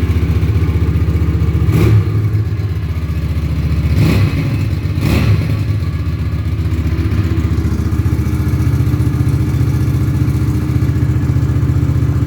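2014 Hyosung GV250's 250 cc V-twin engine idling steadily after a cold start, with three short louder moments about two, four and five seconds in.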